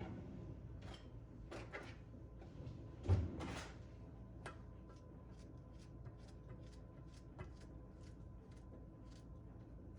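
A cupboard door shutting with a thump about three seconds in, among a few quieter knocks of household handling. After it comes a run of light, evenly spaced clicks.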